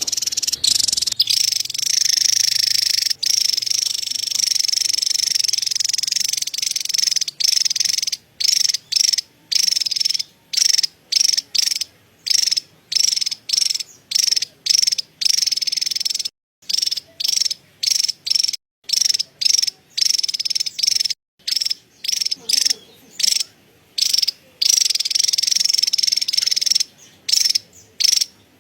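Javan tesia giving its high-pitched, rapid chattering call. It runs unbroken for the first several seconds, then breaks into short bursts a little more than one a second, and runs unbroken again for a couple of seconds near the end.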